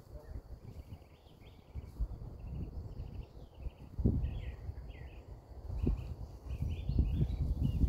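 Songbirds chirping and trilling again and again in short phrases, over a low, uneven rumble that grows louder about halfway through.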